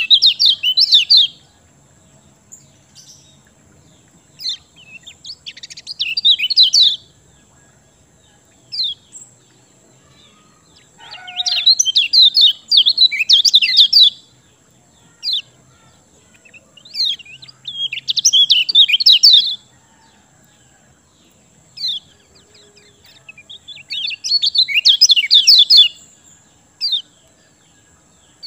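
Kecial kuning songbird singing energetically in repeated rapid trilled phrases, each about two seconds long, five times over, with single sharp chirps in between. A faint steady high whine runs underneath.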